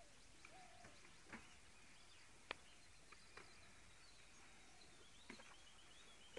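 Near silence with faint bird calls in the background: a run of short, repeated high notes in the last couple of seconds, and a few soft clicks.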